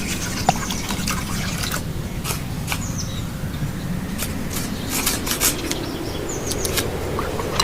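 Liquid dripping and trickling, with many scattered light clicks and a few brief high chirps.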